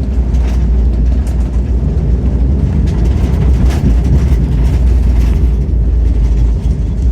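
Heavy, steady low rumble with rattling inside the cabin of an Embraer E190 jet as it rolls along the ground after landing.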